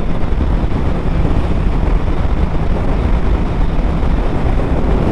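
Steady, loud wind rush over the camera microphone of a motorcycle at highway speed, with a low rumble of engine and road noise underneath.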